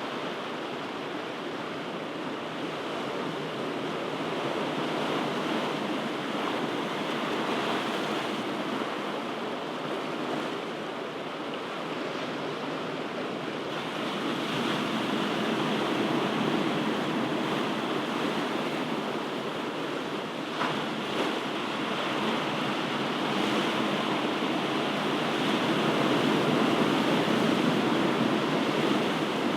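Ocean surf: waves washing in as a steady rushing noise that slowly swells and ebbs, growing louder toward the end.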